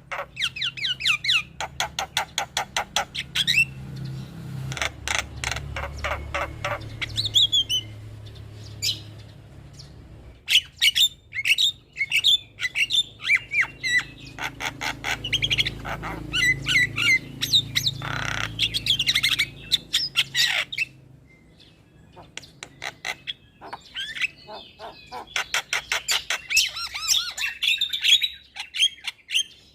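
Javan mynas (jalak kebo) chattering and calling: fast runs of sharp, clicking notes mixed with harsh squawks and short whistled notes, with a brief lull about two-thirds of the way through.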